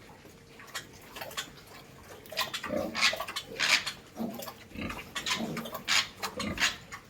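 A sow and her piglets grunting and snuffling in a rapid run of short, noisy bursts, sparse at first and much busier from about two and a half seconds in.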